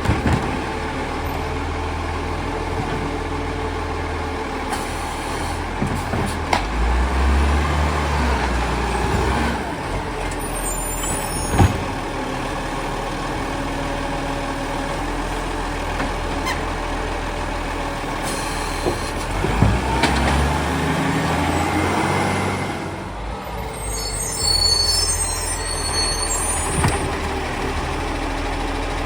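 Diesel garbage truck running steadily while collecting bins, with sharp clanks now and then and several air-brake hisses, the longest about 24 seconds in. Around two-thirds of the way through, the engine speed rises and falls.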